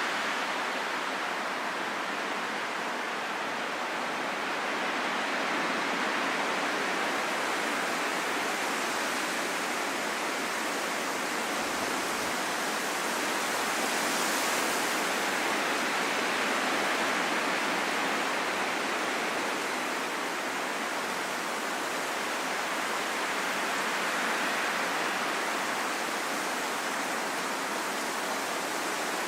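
Steady rain: an even hiss that swells and eases a little over the seconds.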